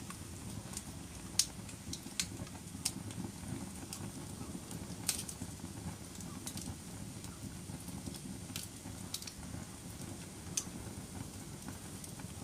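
Wood fire burning in a fireplace: a low steady rumble of flames with sharp crackles and pops at irregular moments, about eight of them.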